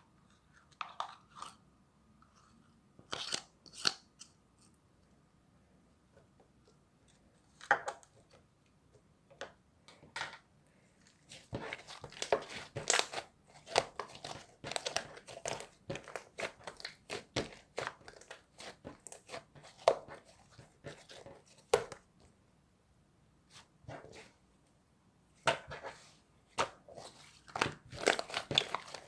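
Slime being squeezed and pressed by hand, making irregular clicking and crackling pops, a few scattered at first, then a dense run of them and another near the end.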